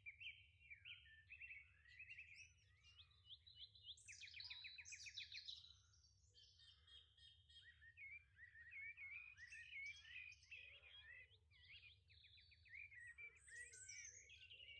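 Faint birdsong from several birds chirping and trilling, with a rapid trill about four seconds in and a couple of short lulls.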